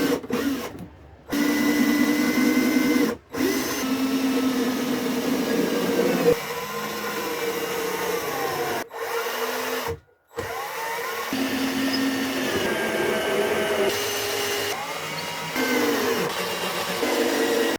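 Power drill pre-drilling and driving screws into the wooden box sides, its motor speed rising and falling, with a few brief stops.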